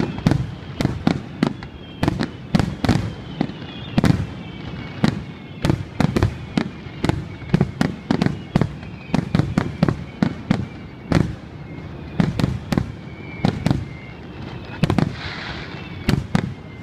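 Fireworks display barrage: aerial shell bursts going off in rapid succession, several bangs a second, with a faint high falling whine under them.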